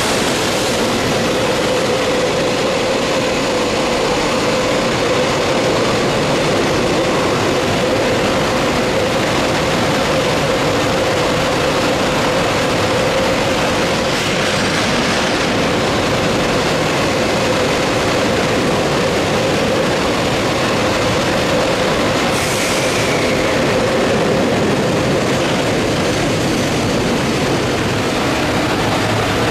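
Container freight train running on the Musashino Line at station, its wagons rolling by with a continuous rumble and a steady hum. A brief high hiss or squeal about two-thirds of the way through.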